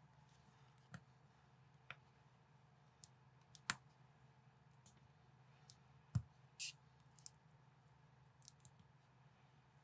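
Plastic Lego-compatible building bricks clicking and tapping as they are handled and pressed together: a dozen or so sharp little clicks at irregular intervals, the loudest about six seconds in.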